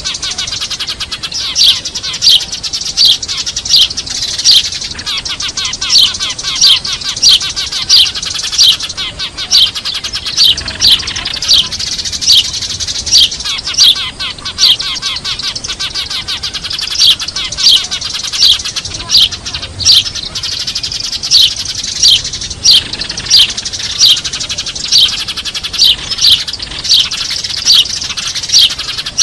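A flock of Eurasian tree sparrows chattering noisily, with loud, sharp falling chirps about two a second and two short pauses in the chirping. It is a sparrow lure call, played to draw wild sparrows in.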